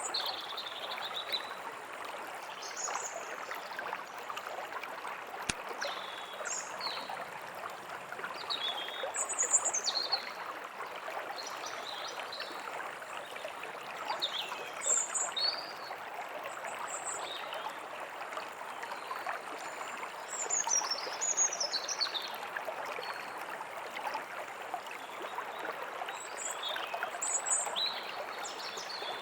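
A stream running steadily, with songbirds calling in short chirps and trills throughout.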